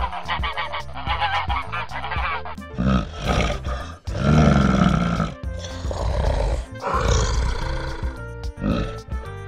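Animal calls over background music: rapid, repeated honking bird calls for the first two and a half seconds, then, after an abrupt change, louder harsh grunting calls from a larger animal.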